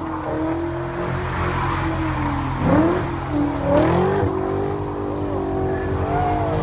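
Performance car engine running, with two quick throttle blips, one nearly three seconds in and another about a second later.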